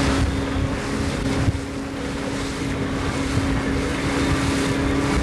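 Motorboat engine running under way, a steady drone, with wind buffeting the microphone and water noise.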